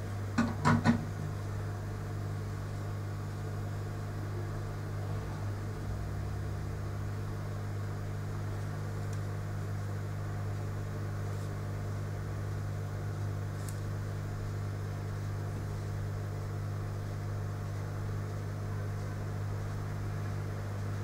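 A steady low electrical hum, like a fan or mains hum, with three sharp clicks close together about half a second in.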